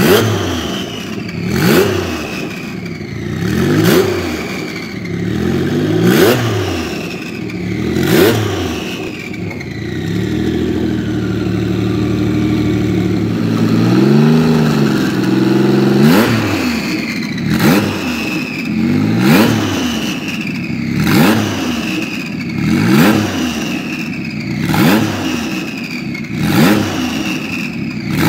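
Tuned Porsche 993 GT2's twin-turbo, air-cooled flat-six revved in repeated blips about every two seconds, each rising sharply and then dropping back. About a third of the way through, it settles to a steadier, lower running for several seconds before the blips resume.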